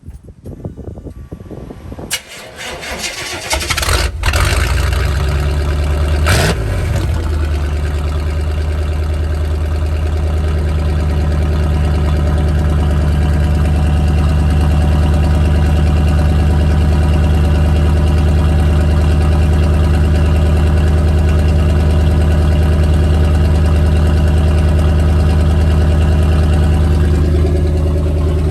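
1988 Suburban's V8 cold-started with the muffler cut off, its exhaust running through only the catalytic converter and a tip. The starter cranks for about two seconds and the engine catches about four seconds in. It revs briefly, then settles into a steady, extremely loud idle.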